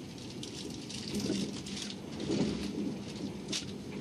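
Running noise inside a moving passenger train: a steady rumble and rattle of the wheels on the track with a constant low hum, and a short sharp click about three and a half seconds in.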